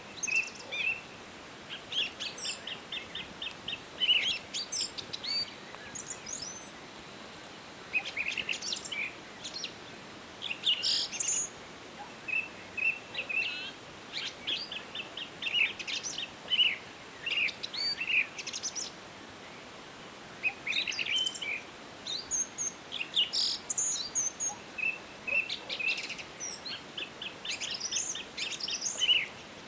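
Several songbirds singing and calling in a forest, with chirps and quick trills of repeated notes coming one after another, over a faint steady background hiss.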